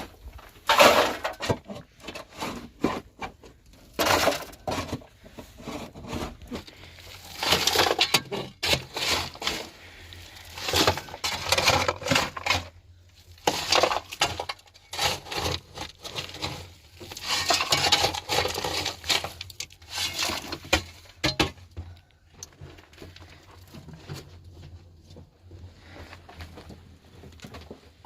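Irregular knocking and clattering, with short bursts of scraping noise, dying down over the last several seconds.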